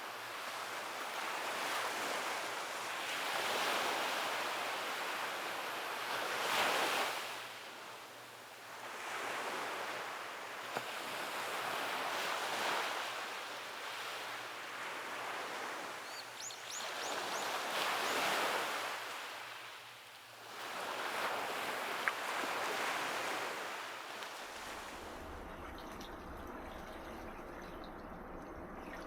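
Sea waves breaking and washing up a beach, one surge swelling and fading every few seconds. About 25 s in the surges stop and it settles to a quieter, steady wash.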